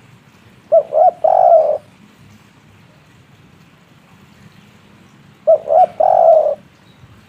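Spotted dove cooing its three-note 'kuk 3' song, two short coos and a longer third one, given twice about five seconds apart.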